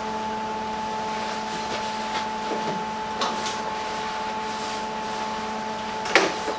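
Handheld electric grinder running at a steady pitch, with a few brief scrapes and clicks as it touches the metal.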